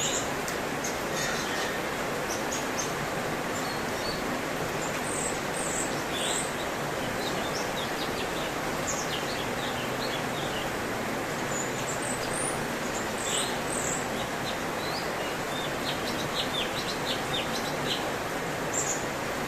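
Cucak cungkok songbird singing a run of short, high chirps and quick whistled notes over a steady background hiss.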